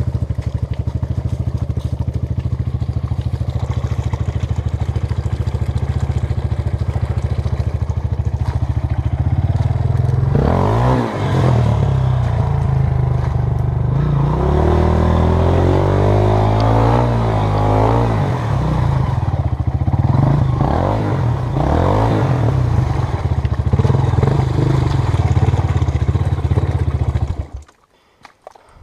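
Honda CRF230 dirt bike's single-cylinder four-stroke engine running steadily, then revved up and down repeatedly from about ten seconds in. The sound cuts off suddenly near the end.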